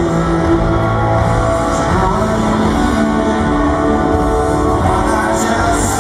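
Rock band playing live through a stadium PA, with guitars and drums, as heard from among the audience.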